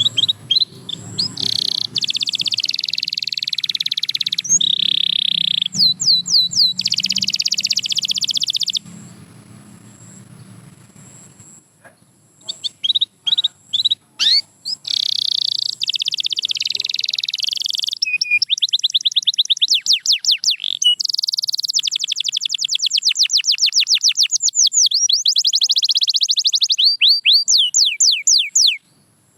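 Canary singing: long high trills and fast runs of rapidly repeated sweeping notes, broken by a pause of a few seconds about a third of the way in.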